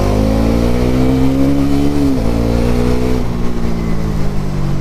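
Bajaj Pulsar NS400Z's single-cylinder engine revving up under acceleration, with a sharp drop in revs about two seconds in. The revs then hold and ease down as the bike slows.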